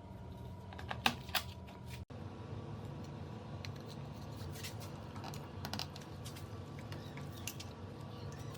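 Scattered light clicks and taps, the loudest cluster about a second in, over a steady low electrical hum.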